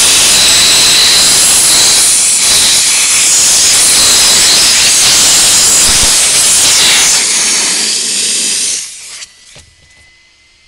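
Steam cleaner's nozzle hissing with a loud, steady jet of steam, cutting off about nine seconds in.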